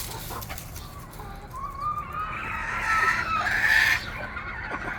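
Feral chickens clucking, with one long drawn-out call that rises about a second and a half in, grows loudest near the end and stops at about four seconds.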